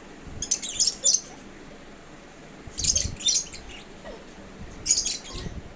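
Pet lovebirds chirping in three short bouts of rapid, high-pitched chirps, about two seconds apart.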